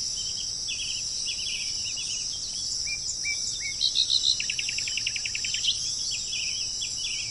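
Songbirds chirping: many short notes and slurred calls, with a fast trill of about ten notes a second around four seconds in, over a steady high-pitched chorus.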